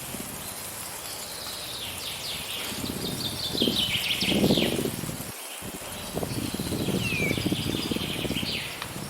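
Wind blowing in gusts, with small birds chirping. A quick run of short falling chirps comes in the first half, then single downward-sliding calls near the end.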